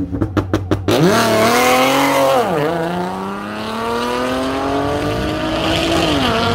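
Drag-racing estate car launching from the start line. For the first second its engine is held at steady revs with a rapid crackle of pops. It then takes off with the engine note climbing hard, dips at a gear change after about a second and a half, pulls again in the next gear, and falls away near the end as the car gets far off.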